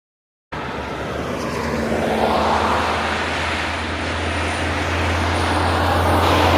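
Heavy truck engine running with a steady low drone and road noise, its loudness swelling and easing. It starts abruptly about half a second in.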